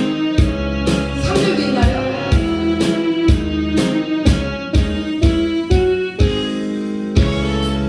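Instrumental break of a recorded backing track for a Korean song, with keyboard and guitar over a steady drum beat of about two beats a second.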